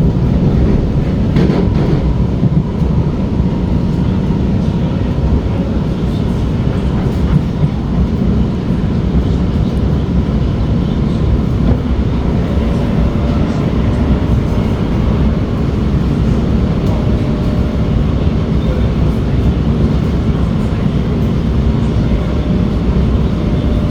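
SMRT R151 metro train running between stations, heard from inside the car: a steady rumble of wheels on rail with a faint steady whine over it.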